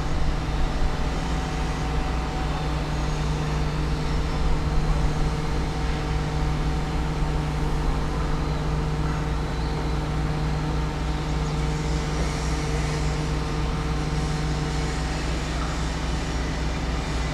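Low, steady machinery hum made of several held low tones, with a fainter higher tone that drops out about fifteen seconds in.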